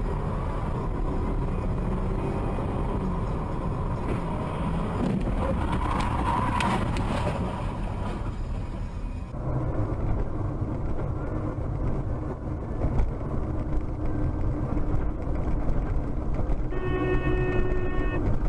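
Dashcam recordings of cars driving: steady engine and road noise, with a cut to another recording about halfway through. Near the end a car horn sounds steadily for about a second and a half.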